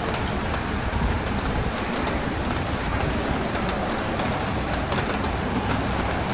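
Steady rain over a low, continuous rumble of street traffic.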